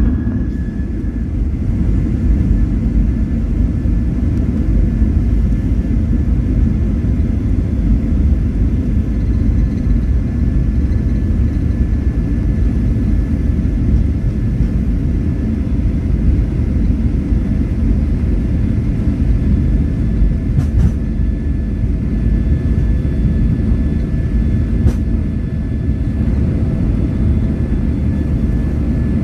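Airliner cabin noise around takeoff: a loud, steady low rumble of jet engines and airframe, with faint steady tones above it. Two faint clicks come about two-thirds of the way in.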